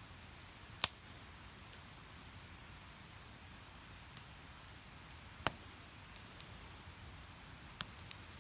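Wood fire crackling in a small steel fire pit: sparse, sharp pops and snaps of burning firewood over a low, steady hiss, the loudest pop a little under a second in and several more in the last few seconds.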